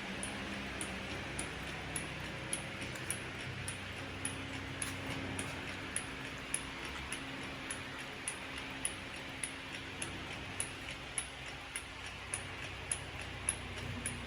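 Steady, even ticking, a little under two ticks a second, over a constant mechanical hum.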